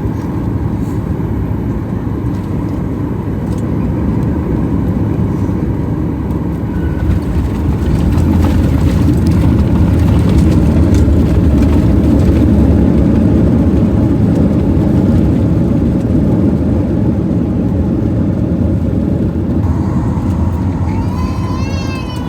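Boeing 737 MAX 9 cabin noise: a steady low rumble of engines and airframe that swells about seven seconds in, holds, then eases off after about sixteen seconds.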